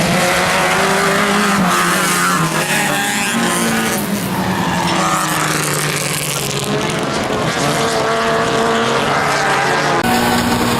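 Toyota Corolla off-road race car's engine at high revs under hard driving, its pitch climbing and dropping again and again with throttle and gear changes, over a loud rushing noise.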